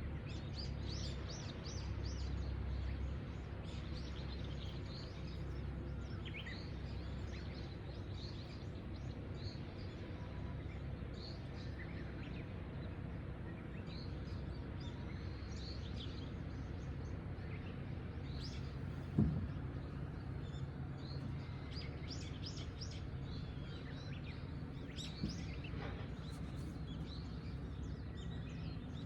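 Wild birds chirping and calling, many short high notes scattered throughout, over a steady low background rumble. One sharp knock sounds about two-thirds of the way through.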